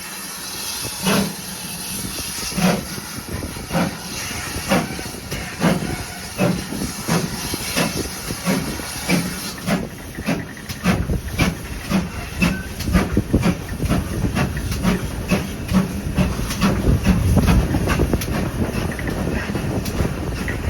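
Steam locomotive starting away under a steady hiss of steam. Its exhaust beats begin slow and spaced, then quicken steadily as it picks up speed, and a low rumble from the train builds in the second half.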